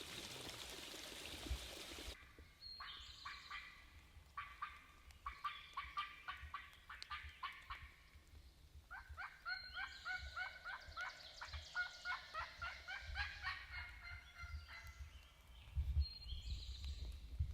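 Wild turkey calling: long runs of quick, repeated notes, in two bouts of several seconds each, with a third starting near the end. A hiss fills the first two seconds and cuts off suddenly.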